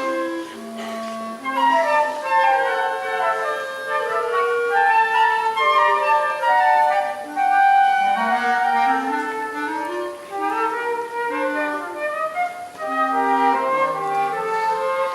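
A small student woodwind ensemble, led by flute with other woodwinds such as clarinet, plays a classical-style piece in several interweaving melodic parts.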